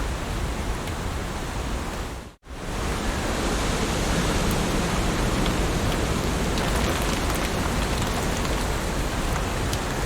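Heavy rain falling steadily, a dense even hiss with scattered faint drop ticks. It cuts out for a split second about two and a half seconds in, then resumes as before.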